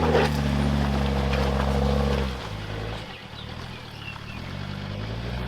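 Four-wheel-drive vehicle's engine running under load, then easing off about two seconds in to a quieter, steady run.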